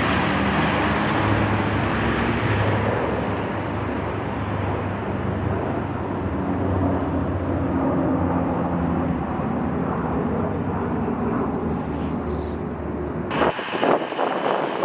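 Heavy vehicle engine running with a steady low drone. About a second before the end it cuts abruptly to a different sound with several sharp knocks.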